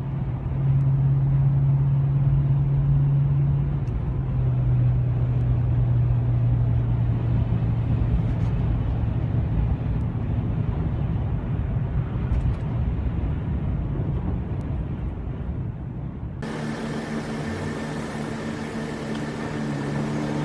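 Moving car's engine and road noise, a steady drone whose pitch steps slightly lower about four seconds in. About sixteen seconds in it gives way to a quieter, steady hum with several steady tones.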